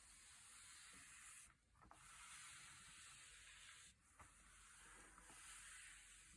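Faint papery hiss of thick, glossy pages being turned and rubbed by hand, broken by two short pauses, about one and a half seconds and four seconds in, with a few soft ticks.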